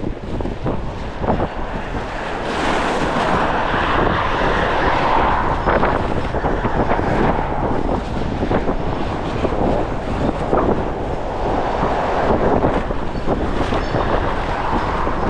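Strong gusting wind buffeting the microphone: a loud, continuous rush that swells and eases.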